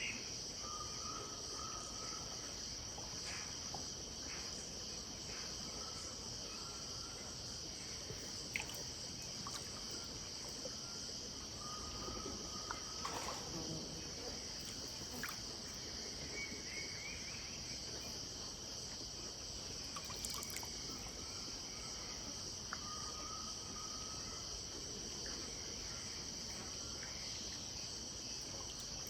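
Steady, high-pitched chorus of crickets and other insects at dusk, with a bird repeating short whistled notes every few seconds and a few scattered faint clicks.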